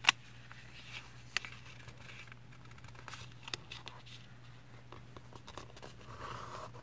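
A sheet of paper being folded and creased by hand: soft rustling with scattered sharp crackles and taps, the loudest right at the start, over a steady low hum.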